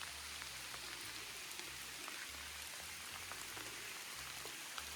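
Steady rain falling in a forest, an even hiss with many scattered drops ticking close by.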